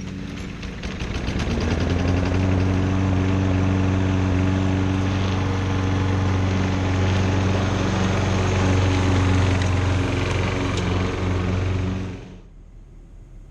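Engine running: it picks up about a second in, runs loud and steady, then drops away sharply near the end.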